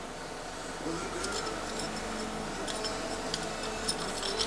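Light scattered clicks and taps of a Honda XR100's clutch plates, steel and friction plates, being slid off the clutch hub and handled one by one.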